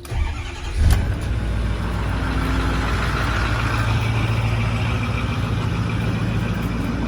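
2008 Ford F-350's 6.4-litre Power Stroke V8 diesel on a cold start in freezing weather: it cranks briefly, fires about a second in, then settles into a steady idle.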